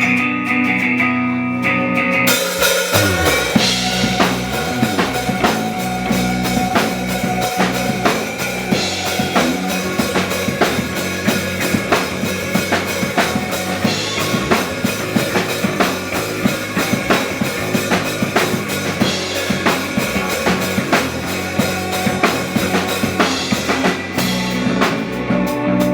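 Rock band playing an instrumental passage. A full drum kit with snare and bass drum comes in under the guitars and bass about two seconds in, then drops out near the end, leaving the guitar ringing on.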